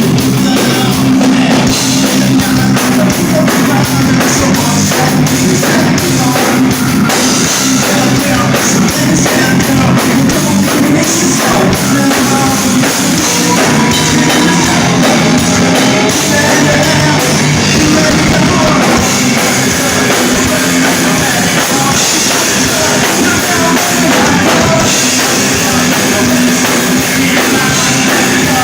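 Rock band playing live and loud, drum kit driving under heavy electric guitars, with singing.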